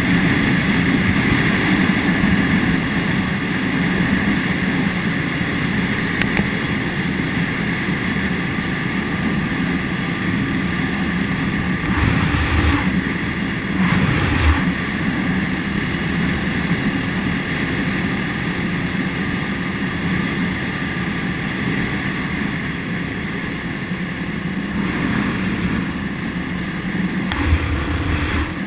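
Motorcycle engine running steadily while riding, with a constant hum and a rushing noise of travel. A few brief low bumps come around the middle and near the end.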